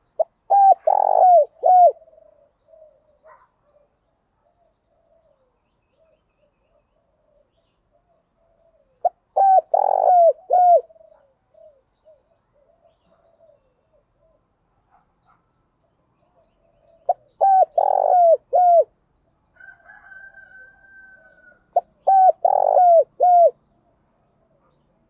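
Spotted dove cooing: four loud phrases a few seconds apart, each a quick run of short coos that dip in pitch, with softer coos in between.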